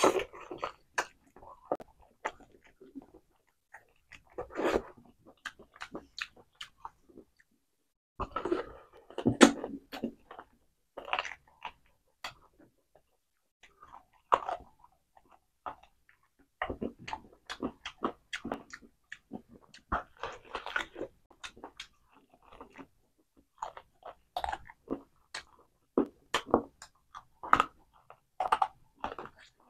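A person chewing and biting chicken: irregular sharp clicks and short crunches in clusters, with brief pauses between mouthfuls.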